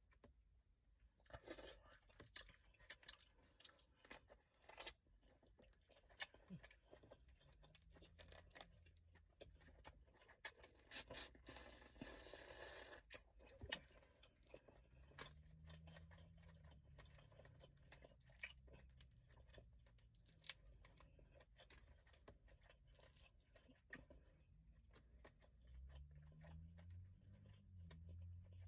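Crawfish being eaten close to the microphone: shells cracking and snapping in many sharp clicks, with chewing between them and a longer stretch of tearing and peeling about halfway through.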